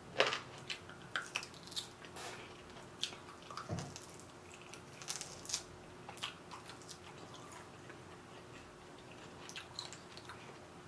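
Close-miked chewing of grilled pork: soft wet clicks and smacks from the mouth, frequent in the first half and thinning out later, over a faint steady hum.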